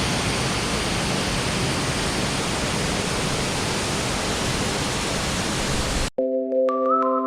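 Rushing water of a waterfall, a steady even rush that cuts off abruptly about six seconds in. Ambient music with long held synthesizer chords then starts.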